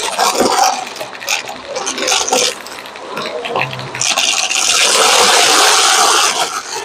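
Vacuum cleaner brushroll making crunching, crackling noises close to the microphone. About four seconds in, a loud, even rush of air takes over for a couple of seconds.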